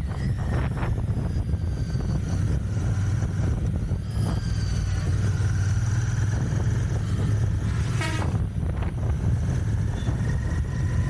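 Royal Enfield Continental GT 650's 648 cc parallel-twin engine running under way through its stock exhaust, a steady low exhaust note. A short sharp noise cuts through about eight seconds in.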